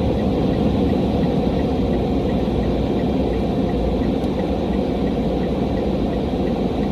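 A car driving along, its engine and tyres making a steady low rumble, with a faint high tick repeating about three times a second.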